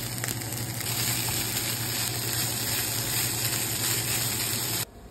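Boudin sausage, vegetables and dirty rice sizzling in a hot skillet while a spatula stirs them; the sizzle cuts off suddenly near the end.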